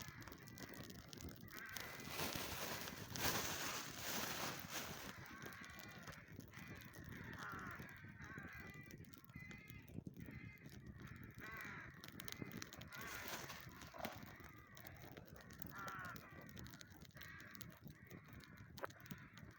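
Birds calling outdoors, a series of short arched calls repeated many times, with a louder stretch of noise about two to five seconds in.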